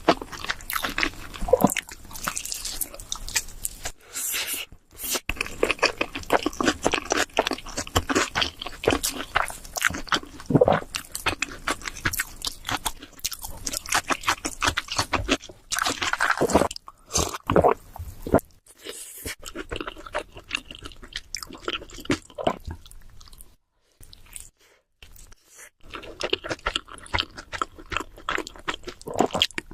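Close-miked chewing and crunching of cheese seafood pizza, a dense run of wet crackles and crisp crunches with a few brief silent gaps, the longest about two seconds long two-thirds of the way through.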